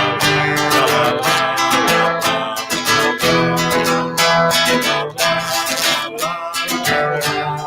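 Acoustic guitar strummed and plucked, playing a light theme tune.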